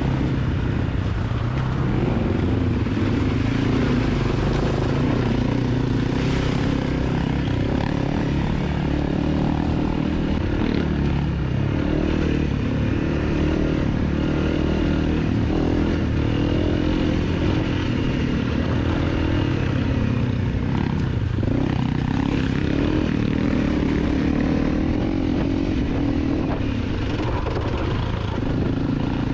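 250cc dirt bike engine running steadily under way, its pitch shifting a little with the throttle.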